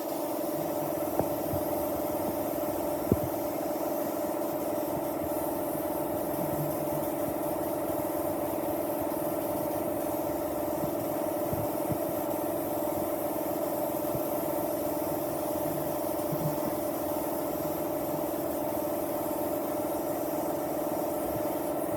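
Restored Simson motorcycle's two-stroke single-cylinder engine idling steadily, with a few short clicks, the sharpest about three seconds in.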